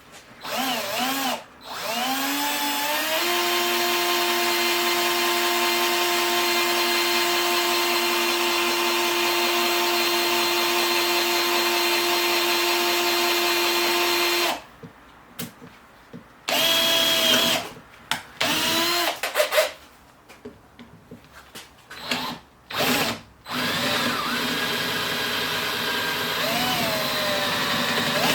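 Handheld electric power tool motor, a drill-type tool, switched on in short bursts, rising in pitch as it spins up, then running steadily for about eleven seconds. It stops, is triggered on and off several times in short bursts, and runs steadily again over the last few seconds.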